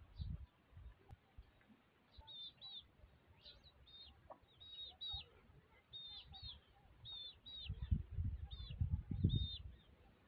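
Short, high bird chirps, mostly in pairs, repeating throughout. Low rumbling thumps, the loudest sound here, come near the end.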